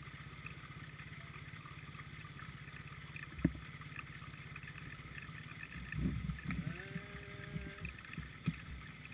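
A motorcycle engine idling faintly, a low, even pulsing hum. There is a single knock about three and a half seconds in, and a burst of rumbling with a short pitched tone from about six to eight seconds in.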